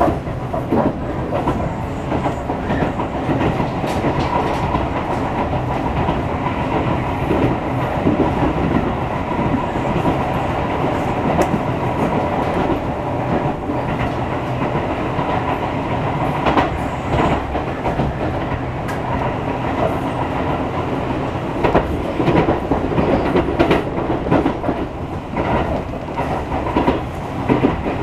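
Tobu Railway train running at speed, heard from inside the carriage: a steady rumble of wheels on rail with clickety-clack clicks as the wheels pass over rail joints, coming more often in the second half.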